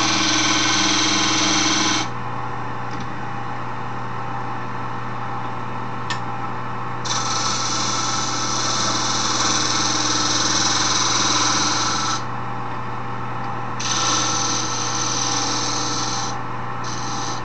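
Wood lathe running with a steady motor hum while a tool scrapes the spinning scrap-wood file handle being shaped, the hissing scrape coming in spells of a few seconds with short pauses between.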